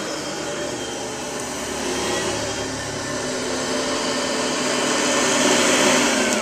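Oreck vacuum cleaner motor running with a steady airflow rush, growing a little louder, then starting to wind down with a falling pitch at the very end as it is switched off.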